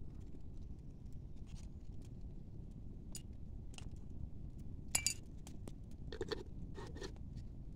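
Scattered light clicks and taps, with a brief ringing clink about five seconds in, over a steady low rumble.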